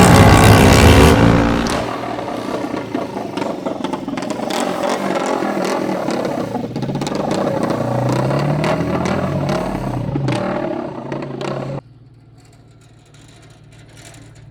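Homemade shifter kart engine revving, its pitch rising and falling, very loud for the first second or so, then cutting off suddenly near the end, leaving a faint low hum.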